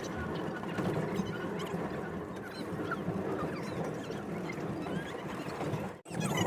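Steady low rumble of a White Pass & Yukon Route passenger railcar running along the track, with faint short squeaks scattered through it. It breaks off abruptly for a moment near the end.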